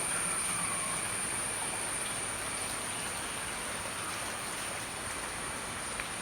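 Steady rushing hiss of water with a thin, steady high-pitched tone above it.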